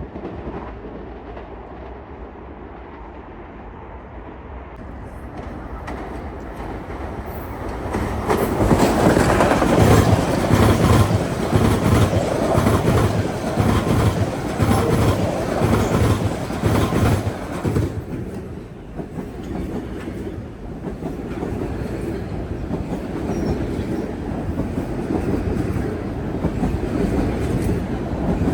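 Metro-North commuter train passing, its wheels clicking rapidly over the rail joints. The sound swells over the first several seconds, is loudest from about eight to eighteen seconds in, then runs on a little quieter.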